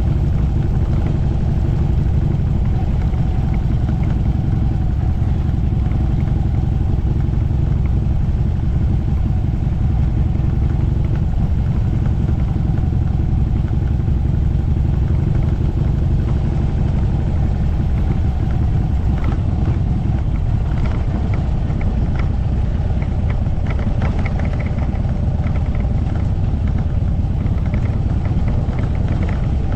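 Motorcycle engine running steadily at an even speed, with a heavy low rumble that does not change.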